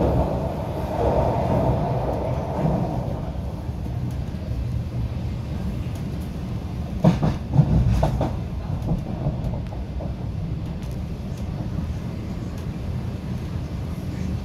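MTR Island Line Q-Train running along the track, a steady low rumble of wheels and traction equipment, with a few sharp clacks from the wheels over rail joints about seven to eight seconds in.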